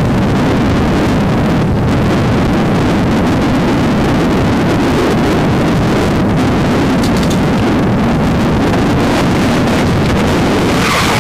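Car engines running at a drag strip start line while the cars sit staged, a steady loud rumble mixed with wind buffeting the microphone.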